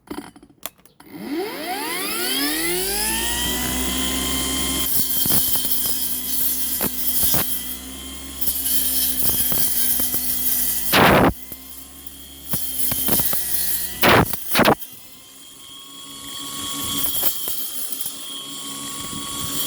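Cordless brushless brush cutter with a blunt metal cutting disc spinning up in a rising whine about a second in, then running at a steady high whine while cutting grass and brush, its pitch and level dipping under load. Two loud brief crashes in the middle, as the disc strikes stems.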